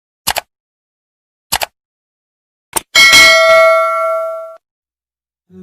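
Three quick double clicks, evenly spaced about a second and a quarter apart, then a bright bell-like ding. The ding rings for about a second and a half and cuts off abruptly.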